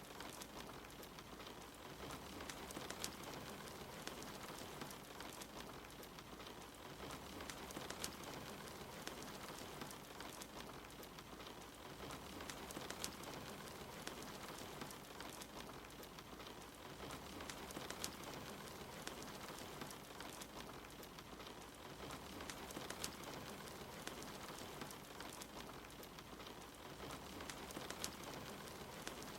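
Steady soft rain with a wood fire crackling, its scattered sharp pops standing out over the rain's hiss.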